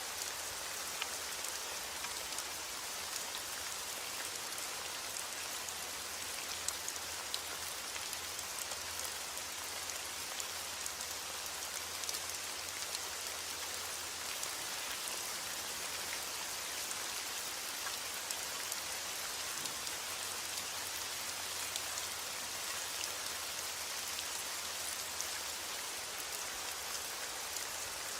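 Steady heavy rain: a dense even hiss of falling rain with many individual drops ticking sharply on a hard surface.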